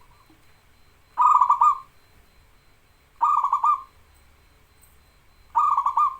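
Zebra dove (perkutut) singing: three short rolling coo phrases about two seconds apart, each a quick run of notes.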